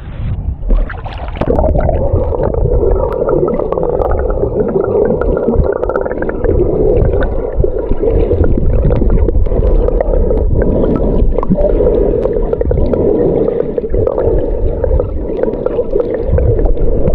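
Muffled gurgling and sloshing of sea water heard through a camera microphone held underwater while snorkelling, starting abruptly about a second and a half in.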